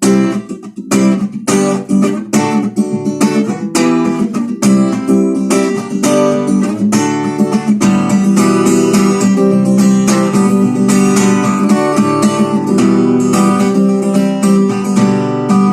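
Acoustic guitar strummed in a steady rhythm, playing the closing chords of a song with no singing.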